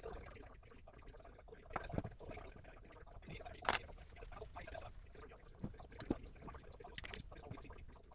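Irregular light clicks and knocks of small metal engine parts and hand tools being handled on a bench, with a few sharper clicks over a faint background hum.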